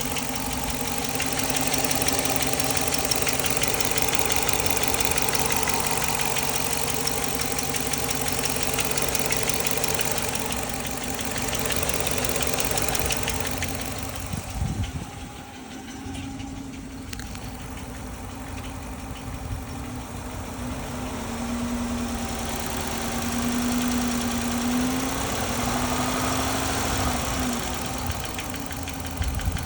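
Dodge Charger's 5.7 Hemi V8 running at idle with a fast, steady ticking noise; live scan data shows no misfires, so the noise's cause is unidentified. The sound drops quieter for a few seconds about halfway through.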